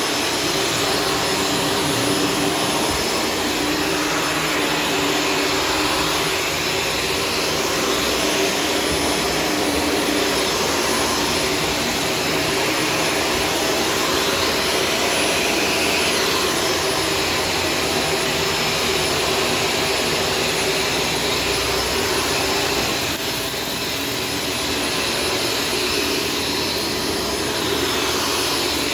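Shark Stratos vacuum cleaner running steadily, a continuous motor whine and rush of air, with a slight drop in loudness about three-quarters of the way through.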